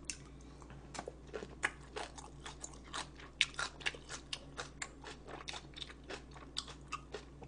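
Close-miked chewing of food: an irregular run of sharp crunches, several each second.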